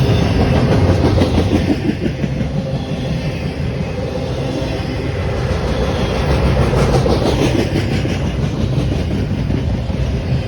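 Train passing close by, its wheels clacking over the rail joints in a steady run of clicks over a continuous rumble, swelling louder twice.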